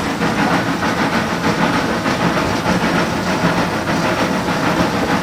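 Footplate sound of a WWII German Kriegslok 2-10-0 steam locomotive working a train: a steady hiss of steam with quick, regular exhaust beats and the clatter of the running gear and rails.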